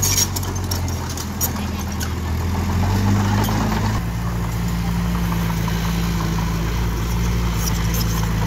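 Diesel engine of an earthmoving machine running steadily, with its note shifting to a different speed about halfway through and a few light clanks near the start and end.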